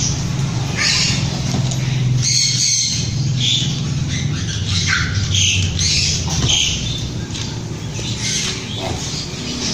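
Tortoise calling during mating: short, hissy squawks repeated roughly once a second, irregularly spaced, over a steady low hum.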